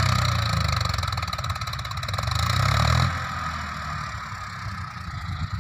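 Swaraj 963 FE tractor's diesel engine running steadily, its sound dropping off sharply about three seconds in and carrying on more quietly.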